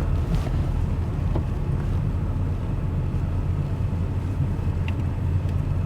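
Pickup truck's engine and road noise, a steady low rumble, as the truck pulls in to park.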